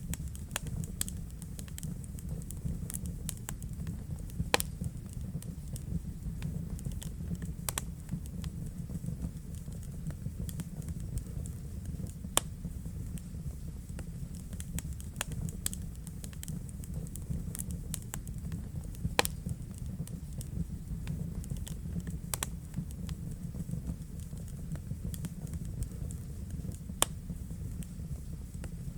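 Wood fire burning in a fireplace: a steady low rumble of flame with irregular sharp crackles and pops from the burning logs, a few louder pops standing out.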